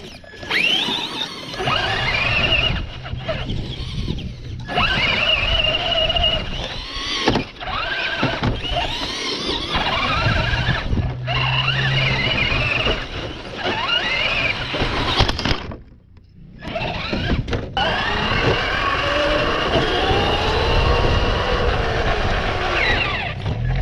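RC car's electric motor whining, rising in pitch again and again as it accelerates, over a steady noisy rumble. The sound cuts out briefly several times, longest for about a second two-thirds of the way through.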